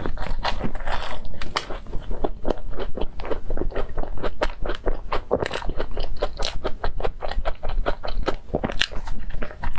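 Close-miked biting and chewing of crumb-topped cream puffs: a dense run of crisp, irregular crunches and crackles, several a second.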